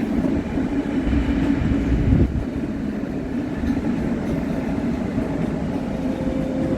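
Passenger train moving along the station platform: a steady low rumble with a drone, swelling briefly about two seconds in.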